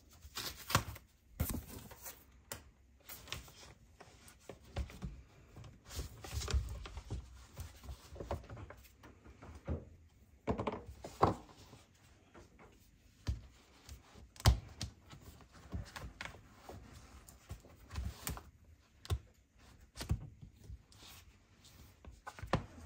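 Hands handling unboxed accessories and their packaging: irregular taps, knocks and light thunks of objects being picked up and set down, with soft rustling between them and one sharper knock about two-thirds of the way through.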